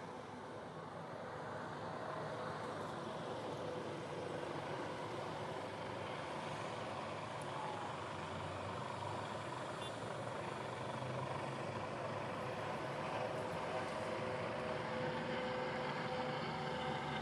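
A steady engine drone with a few held tones, slowly growing louder.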